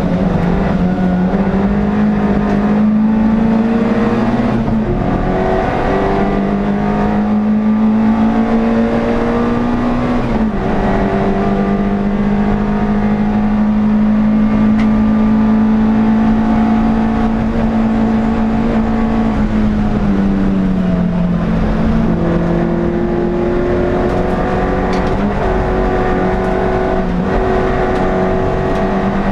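Onboard sound of an NSU TT's air-cooled four-cylinder racing engine running hard at high revs. The pitch drops sharply twice in the first half as it shifts up, holds steady through a long stretch, then falls for a while before climbing again near the end.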